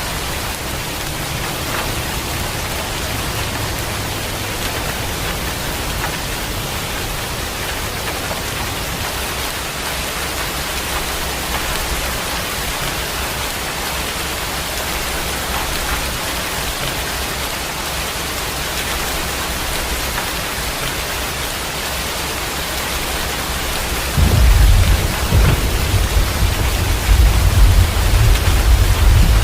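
Steady heavy rain falling. About 24 seconds in, a loud, deep rumble of thunder starts and keeps rolling.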